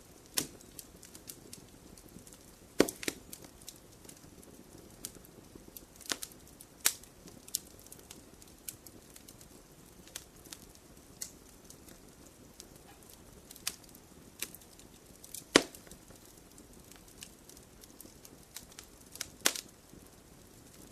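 Wood fire crackling in a stone fire pit: scattered sharp pops and snaps, a few much louder, over a low steady hiss of burning.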